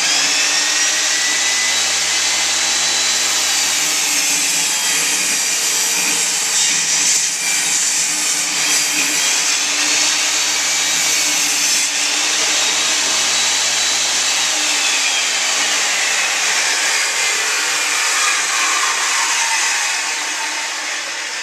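Electric power saw running and cutting plywood subflooring, a loud steady whine that holds for most of the time. Near the end the motor is switched off and its pitch falls slowly as the blade spins down.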